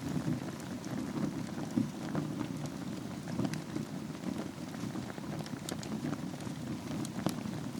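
Wood fire burning in a fireplace over glowing embers: a steady low rush of flame with scattered crackles and pops from the burning wood, two sharper pops about two seconds in and near the end.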